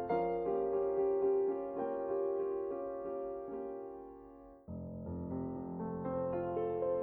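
Solo piano music playing slow sustained chords that fade away; about four and a half seconds in, the music cuts abruptly to a new piano passage.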